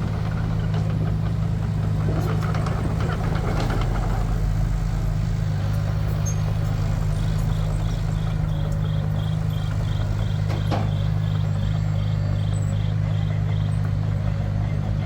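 Heavy construction machine's diesel engine running steadily, with some clattering early on and a single knock later. From about halfway a faint high beep repeats about twice a second.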